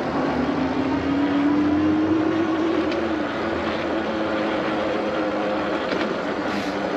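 Super73 electric bike's rear hub motor whining, its pitch rising slowly, then dropping away about three seconds in, over steady wind and tyre noise from riding.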